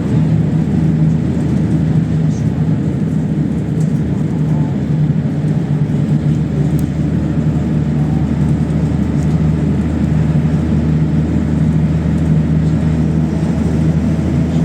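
PAZ-32054 bus's V8 engine running at steady speed under way, a constant low drone with a level pitch.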